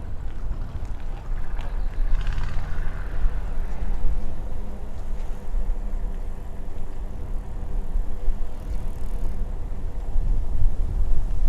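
Wind buffeting the microphone during a bicycle ride, with a motor vehicle's engine running alongside. The engine swells briefly about two seconds in.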